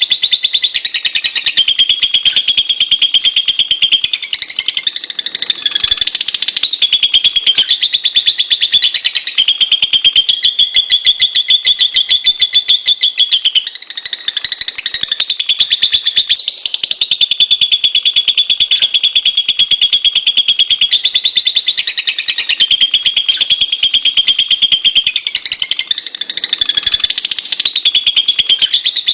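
Lovebird chattering: a continuous, rapid, shrill twittering with only brief breaks.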